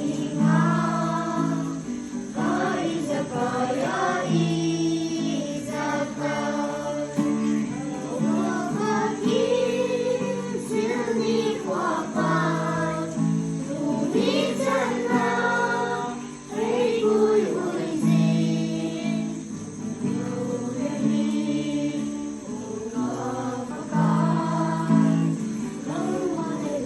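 Group singing: several voices singing a song together over steady accompanying chords.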